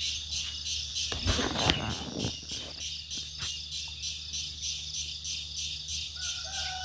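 Steady, rhythmic high-pitched pulsing with an insect-like quality, coming from a large tree. Its maker is unidentified: it was taken for a grasshopper at first, then judged too loud for one. There is a brief rustling burst about a second in and a short bird whistle near the end.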